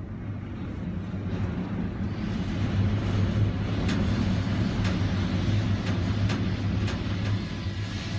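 Strong wind blowing and hissing over a steady low hum. A handful of sharp ticks come in from about four seconds in.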